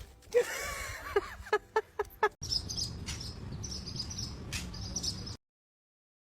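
A few short pitched cries in the first two seconds, then birds chirping over outdoor background noise, which cuts off abruptly near the end.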